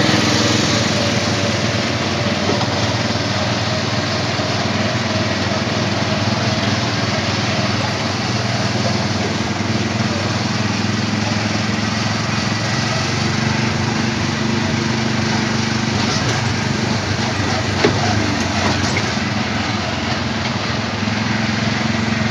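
Small petrol engine of an Autopia ride car running steadily, with one brief knock about eighteen seconds in.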